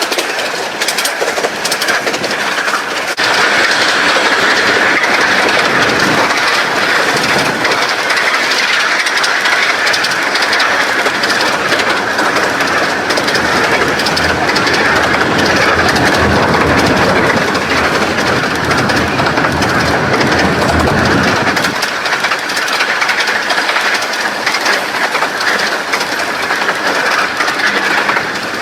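Romney, Hythe and Dymchurch Railway 15-inch gauge miniature train running through, its wheels clattering on the rails. A low rumble builds a few seconds in and drops away about three-quarters of the way through as the train passes.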